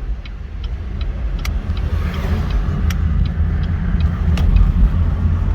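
A vehicle driving, heard from inside the cab: a deep engine and road rumble that grows louder, with a few faint clicks.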